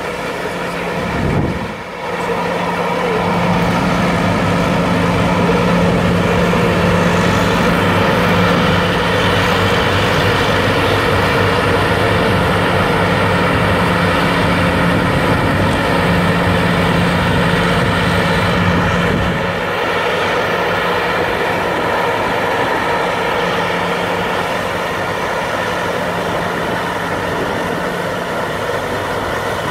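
John Deere engine running steadily with its Flexxaire fan turning. About two seconds in the sound dips briefly, then swells louder, and about two-thirds of the way through it turns quieter and less deep.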